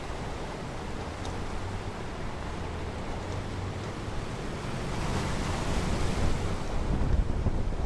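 Ocean waves washing onto a beach, a continuous surf wash with one wave surging in about five seconds in and a deeper rumble building near the end.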